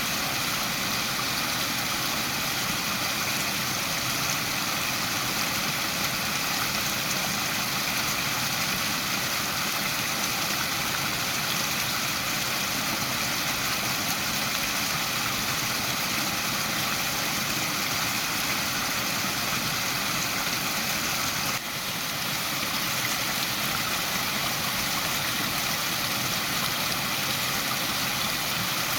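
Waterfall: a steady rush of falling water, with a brief dip in level about two-thirds of the way through.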